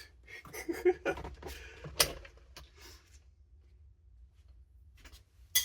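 A string of sharp clicks and knocks in the first few seconds, the handling of the aftermarket steering wheel as it comes off the steering column. One more sharp click comes near the end.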